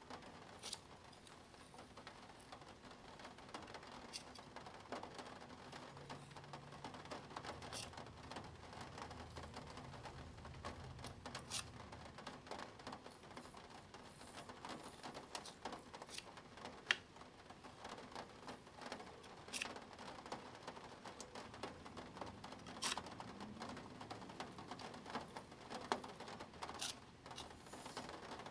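Plastic Spirograph gear being turned by a pen around its ring: a quiet, continuous patter of small clicks and scratches, with a few sharper clicks.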